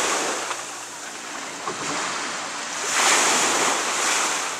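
Sea waves washing in, a rushing noise that fades at the start and swells again about three seconds in for about a second.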